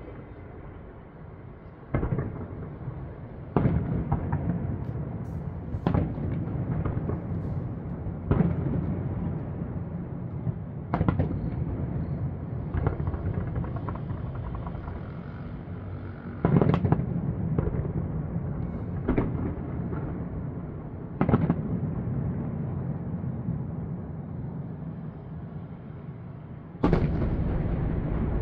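Aerial fireworks shells bursting: about ten sharp booms a couple of seconds apart, each followed by a long rolling rumble that echoes off the surrounding high-rise buildings. A longer gap comes before the last, loud burst near the end.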